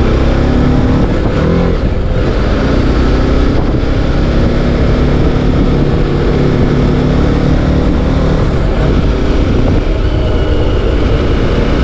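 TVS Apache RR 310's 312 cc liquid-cooled single-cylinder engine running steadily as the motorcycle is ridden, with a steady rush of wind noise.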